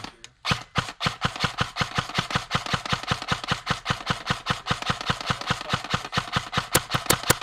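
Krytac Trident MkII CRB airsoft electric gun firing a long, rapid, steady string of shots, about seven a second, after a single shot at the start; the firing stops abruptly.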